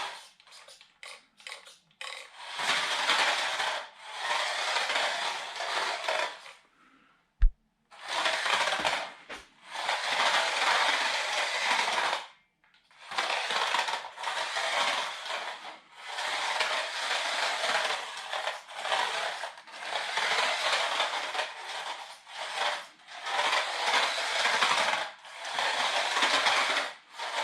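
LDRC LD2801 1/28 scale RC drift car driving on a hard kitchen floor: its small brushed motor and gears whirring and its tyres scrabbling, in stop-start bursts of a second or two. A single sharp knock about seven seconds in.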